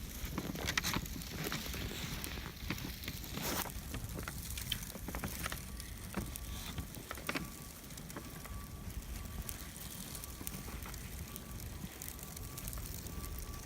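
Outdoor storm ambience: wind rumbling on the microphone, with scattered crackles and clicks that are densest in the first half. A faint steady high tone comes in about six seconds in.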